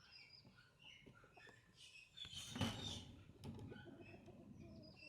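Small birds chirping in short, scattered calls. A louder brief rustling swish comes about halfway through.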